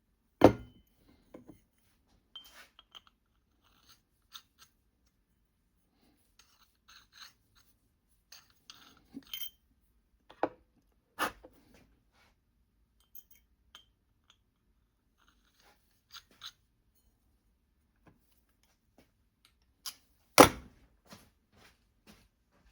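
Scattered sharp metal clicks and clinks of drill bits and a drill being handled while a bit is swapped, with two louder knocks, one about half a second in and one near the end. No drill motor runs.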